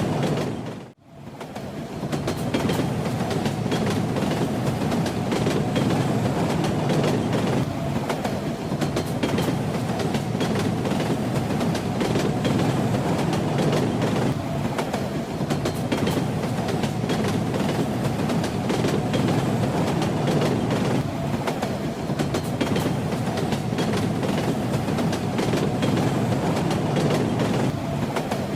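A train running along the track, with a steady rumble and the rattle of its wheels over the rails. About a second in, the sound dips out briefly and fades back in.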